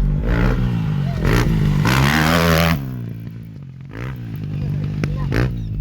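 Husqvarna dirt bike engine revving hard with rising and falling throttle, cut off sharply about three seconds in, dropping to a lower, quieter note before it picks up and revs again.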